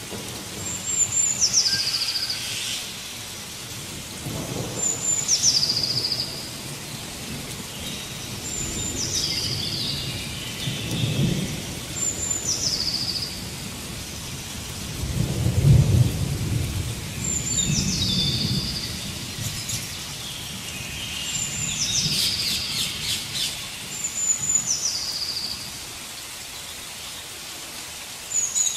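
A bird repeats a short high whistle that drops in pitch, every few seconds, over a steady rushing hiss of rain or falling water. Low rolls of distant thunder swell and fade several times.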